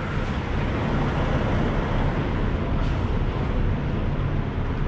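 Kenworth T680 semi truck's diesel engine running steadily, a low, even hum under a broad rumble.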